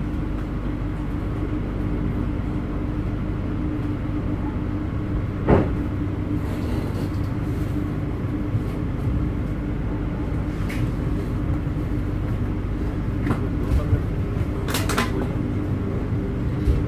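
Inside a passenger train coach as it pulls away from a station: steady low rumble and hum of the moving train, with a sharp knock about five and a half seconds in and two more close together near the end.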